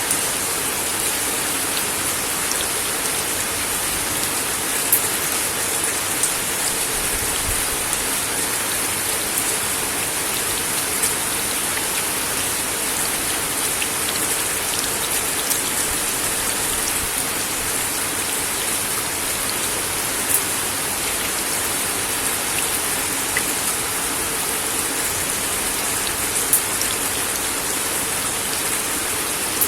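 Steady rain falling on a wooden deck, a constant hiss with scattered louder drop ticks.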